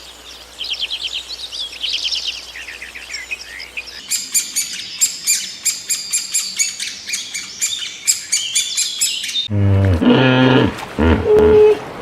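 Songbirds singing in quick, falling trills, then, after a cut, a denser flurry of high, rapid chirps. Near the end it cuts to a louder, deeper call or voice.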